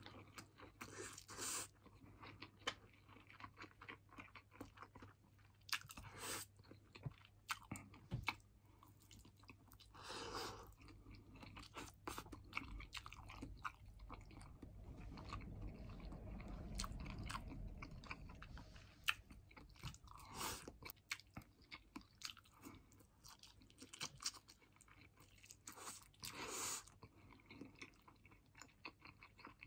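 Faint close-up eating sounds: a person chewing and crunching fried chicken and rice, with scattered small clicks.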